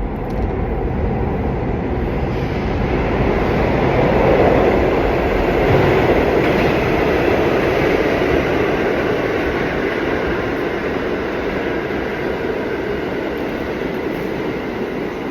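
Subway train running along the tracks: a loud, steady rush of wheels and car noise that swells a little a few seconds in, then holds level.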